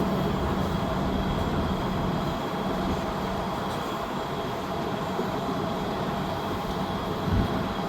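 Wind buffeting the microphone: a steady, rough low rumble with a faint hum underneath, and one low thump about seven seconds in.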